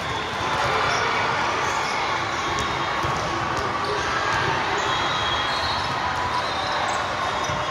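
Gymnasium game sounds: a steady murmur of many voices from players and spectators, with a ball bouncing and a few short knocks on the court.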